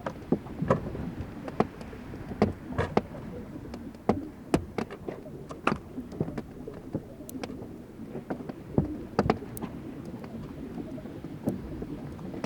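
Fláajökull glacier ice melting and breaking: irregular sharp cracks, pops and ticks over a low, steady rumble.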